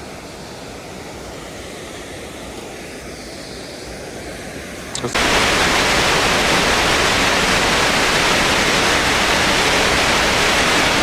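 Waterfall roar, a steady rushing of falling water, that turns suddenly much louder and fuller about five seconds in, as from right beside or behind the falling water.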